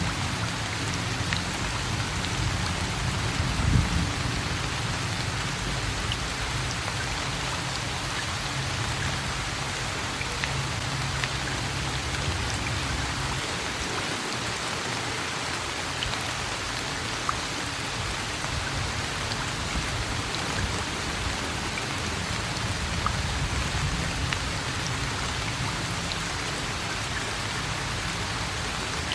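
Steady rain falling, a constant hiss with scattered drop ticks. A low rumble runs under it through the first half, strongest about four seconds in, then fades.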